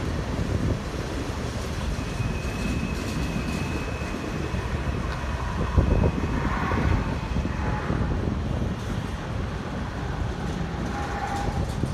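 Freight cars of a manifest train rolling past on the rails, a steady low rumble of wheels on track, with a thin, steady high-pitched squeal from about two seconds in until nearly eight seconds in.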